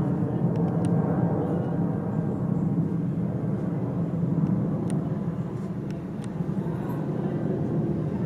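Boeing 747-400 freighter's four jet engines at takeoff power as the aircraft climbs away, a steady deep rumble that eases off slightly about six seconds in.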